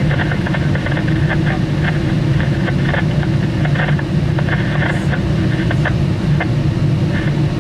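Train running: a steady low engine drone with a hum, with many short irregular clicks scattered over it.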